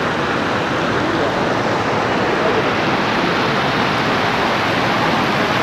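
Floodwater rushing across a road: a steady, even rush of moving water.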